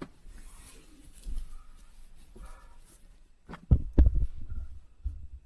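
Faint rustling, then a cluster of low thumps and knocks about three and a half to four and a half seconds in, with one more near the end, in a small enclosed space.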